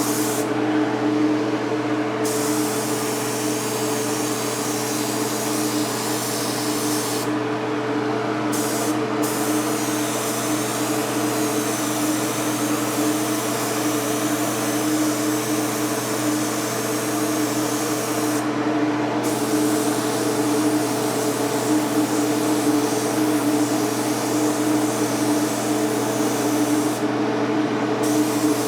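Mini paint spray gun hissing as it sprays House of Kolor Kandy paint, the hiss stopping briefly four or five times and resuming, over a steady hum.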